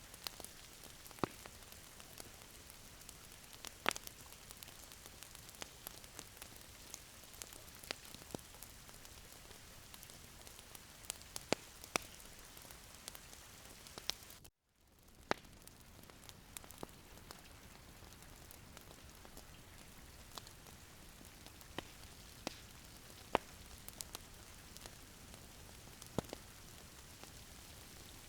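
Wood fire crackling in a fireplace: a soft steady hiss with scattered sharp pops, cut briefly to silence about halfway through.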